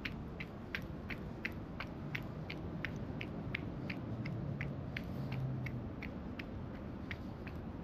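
Running footsteps on pavement, short sharp steps about three a second at a steady pace, over a constant low outdoor rumble, with a low hum swelling briefly a little past the middle.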